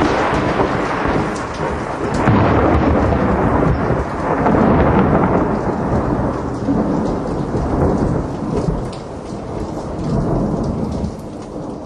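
Thunder from a lightning strike rolling on in a long rumble that swells several times and dies away near the end, with rain falling.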